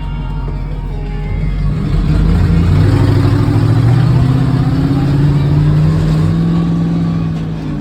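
Monster truck engine revving up about two seconds in, then running hard at high revs and easing off slightly near the end.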